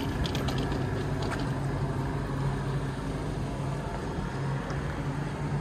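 Steady low hum and rumble of an electric train, with scattered light clicks.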